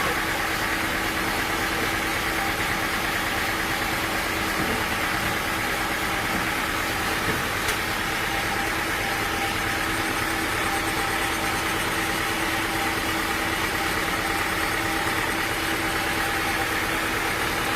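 Sawmill machinery running steadily: a constant engine-driven drone with a steady hum, its level unchanged throughout.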